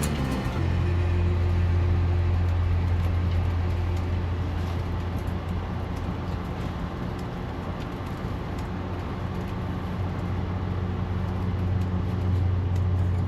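Amtrak Northeast Regional passenger train running, a steady low hum and rumble with noise from the running gear.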